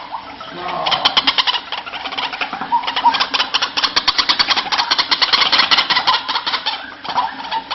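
White-breasted waterhen (ruak-ruak) calling. About a second in it breaks into a long run of rapid, harsh repeated notes that fades near the end, with short single calls before and after.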